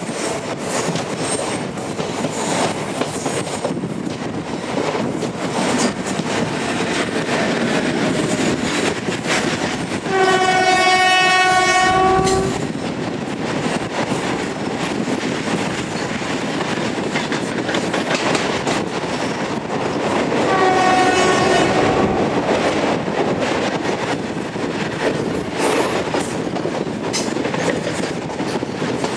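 A WAG-7 electric locomotive hauling a loaded freight train of open-top wagons rolls past close by, with a steady rumble and clickety-clack of wheels over rail joints. The locomotive's one-note horn sounds twice: a long blast about ten seconds in and a shorter one about twenty seconds in.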